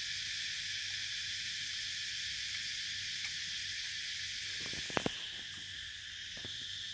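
Steady chorus of insects chirring. Two sharp clicks come about five seconds in.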